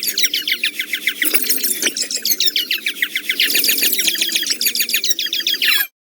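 A rapid, unbroken run of short, high-pitched squeaks, each falling in pitch, that cuts off suddenly near the end.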